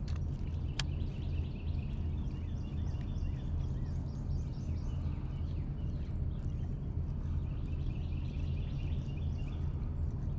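Small birds chirping over and over, a quick busy twitter, over a steady low hum. Two sharp clicks sound just after the start.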